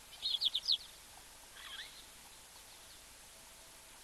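A bird calling over faint background hiss: a quick run of about four short high notes at the start, then a falling call about a second and a half later, with a few faint notes after it.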